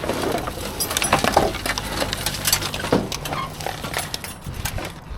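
Hard scrap objects clinking and knocking together, with irregular clatter as items are picked up and shifted while rummaging through a dumpster.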